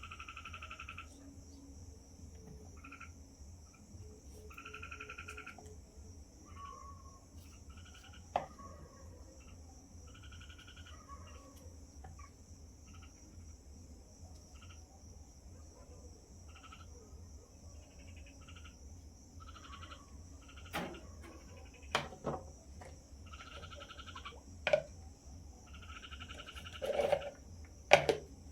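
Frogs calling in short pulsed bursts over a steady high-pitched chorus of crickets or other insects. A few sharp knocks come in the second half, the loudest near the end.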